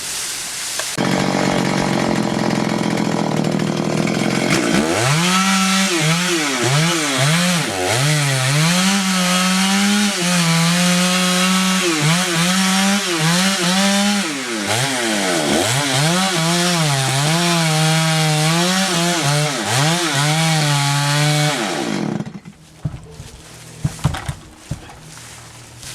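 Chainsaw running and cutting through wood, its engine pitch repeatedly dipping and recovering as the chain loads up in the cut. It cuts off about 22 seconds in, leaving a few knocks.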